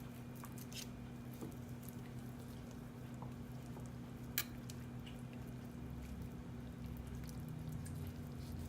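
Faint wet squishing and light knife ticks as raw chicken is cut and its skin pulled off, with one sharper click about four and a half seconds in. A steady low electrical hum runs underneath.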